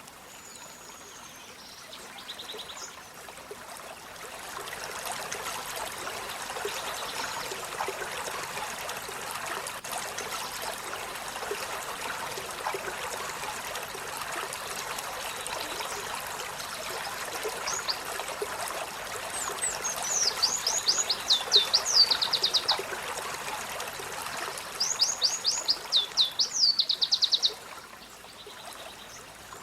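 Olive-backed sunbird singing: a few short high calls at first, then two loud, fast trills of rapid downward-sweeping high notes, one past the middle and one near the end. Underneath, a steady rush of running water comes in about four seconds in.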